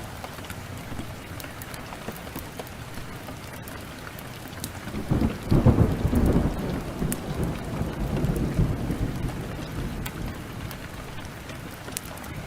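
Heavy, steady rain with a roll of thunder that rises about five seconds in and rumbles on for several seconds as it fades. Sharp crackles from a wood fire are scattered throughout.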